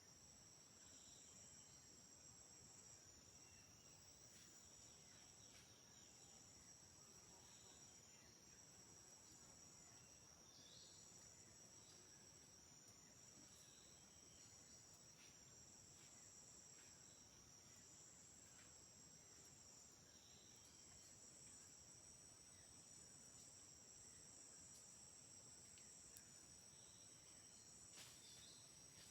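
Faint night insect chorus in rainforest: one continuous high-pitched trill, with a second, pulsing trill just above it, and scattered short faint calls. A soft click comes near the end.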